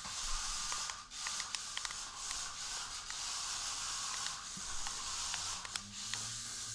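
Mini RC stunt roller car running: its small electric drive motors and spinning wheels make a steady high-pitched buzzing hiss that dips briefly now and then, with scattered clicks and knocks as the car bumps and rolls.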